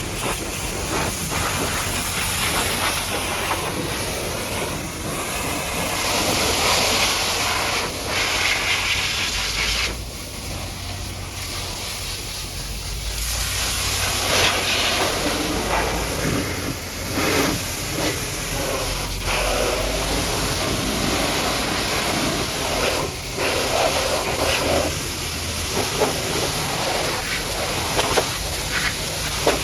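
High-pressure washer jet blasting mud off a truck: a continuous spraying hiss that swells, brightens and dulls as the jet moves over different surfaces, with a steady low hum underneath.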